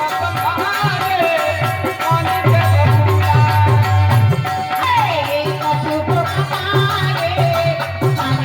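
Indian folk music: a hand drum beats a steady repeating rhythm under a gliding melody line.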